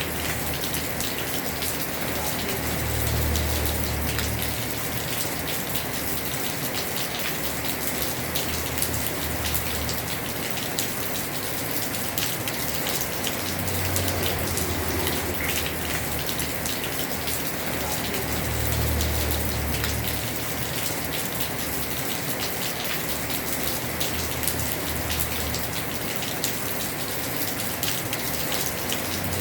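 Heavy rain falling on a house roof: a steady hiss of dense drops. A low rumble swells up a few times.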